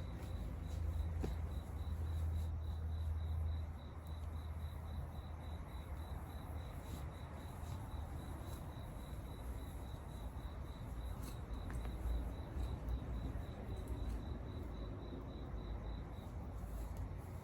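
A cricket chirping steadily in a high, evenly pulsing trill, over a low rumble that drops away about four seconds in, with faint scattered ticks.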